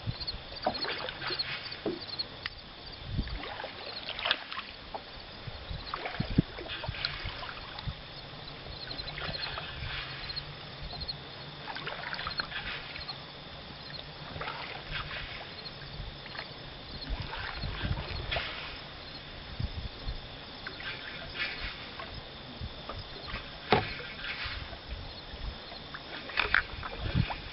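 Water sloshing and splashing around the hull of a small skiff moving through a few inches of water, with irregular splashes and knocks every second or two.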